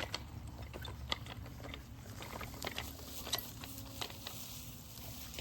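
A child's bicycle ridden over bumpy grass: irregular clicks and rattles over a steady low rumble.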